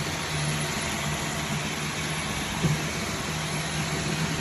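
Robot vacuum cleaners running: a steady motor hum and whir, with one brief knock about two and a half seconds in.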